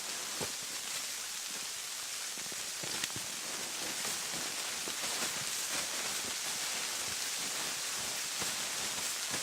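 Steady hiss of a snowstorm's wind and snow against tent fabric, with faint scattered ticks.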